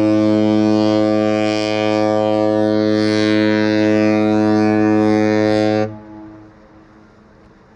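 A cruise ship's deep horn sounding one long steady blast, which cuts off about six seconds in and leaves a brief fading echo.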